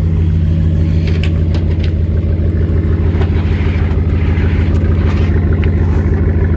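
A car running with a steady low engine and road drone, heard from inside the cabin, with a few light clicks and rustles over it.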